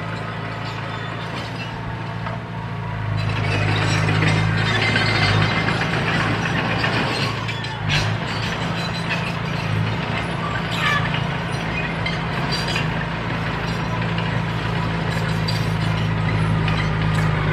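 Diesel engine of a D31P crawler bulldozer running steadily, with metallic clinks and rattles over it; the engine grows louder about three seconds in.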